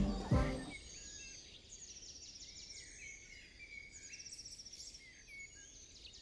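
Small birds chirping and twittering, faint, in short repeated high calls. A few pitched musical notes die away just under a second in.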